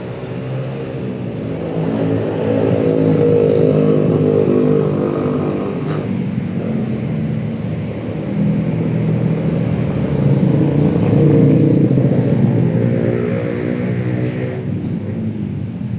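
Street traffic: the engines of passing vehicles swell and fade as they go by, loudest about three to five seconds in and again around eleven seconds. There is a short click about six seconds in.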